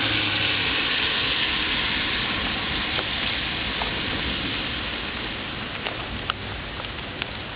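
Steady rain falling, slowly easing, with scattered sharp drips in the second half.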